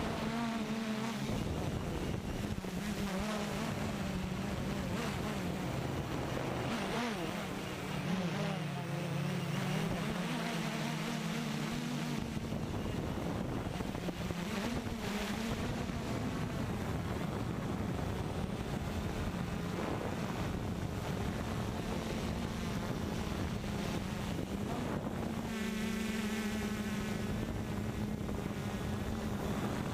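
Walkera multirotor drone's propellers buzzing in flight, the pitch wavering up and down as the motors change speed. Wind rumbles on the microphone underneath.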